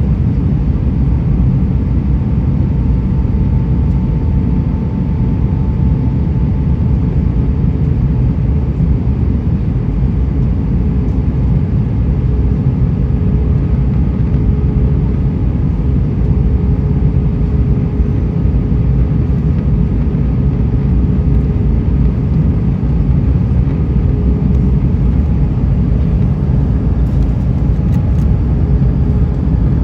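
Airbus A320 cabin noise heard from a window seat in flight: a steady, loud rumble of engines and rushing air, with a faint steady hum running through it.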